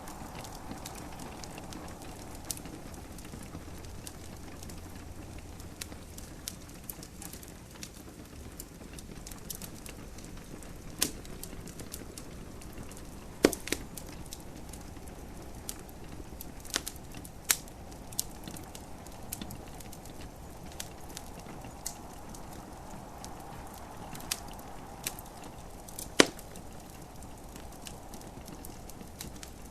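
Wood fire in a fireplace crackling, with irregular sharp pops over a steady soft hiss. The two loudest pops come about halfway through and near the end.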